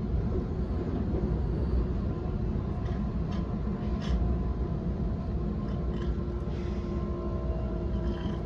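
Waratah A-set electric train running, heard from inside the carriage: a steady rumble of wheels on track with the even whining tones of its IGBT-VVVF traction inverter and motors. A few faint clicks sound around the middle.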